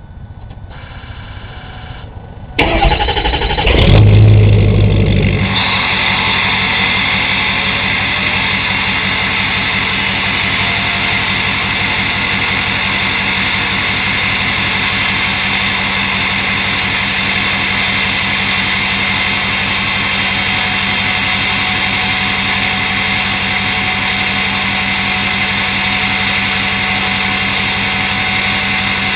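A 2006 Ford F-350's 6.0 L Power Stroke V8 turbo-diesel is cold-started at 10 degrees without its block heater plugged in, through a straight-piped 4-inch exhaust with no catalytic converter or muffler. The starter cranks for about a second and a half and the engine catches, loudest about four seconds in. It settles within a couple of seconds into a steady idle.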